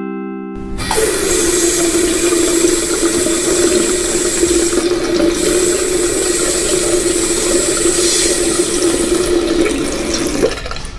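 Water tap running full, a steady rush of water with a constant humming tone in the pipes; it starts about a second in, just after a short descending chime, and stops shortly before the end.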